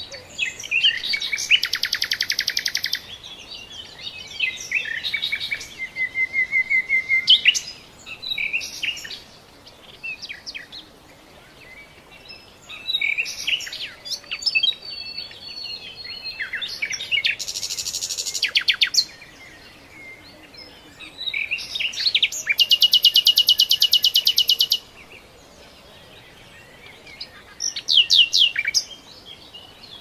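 A songbird singing in separate phrases of a few seconds each, made of fast trills and rapidly repeated high notes, with short pauses between phrases.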